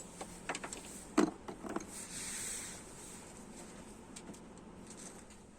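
A few short clicks and knocks of parts or tools being handled, one louder knock about a second in, then a soft hiss for about a second.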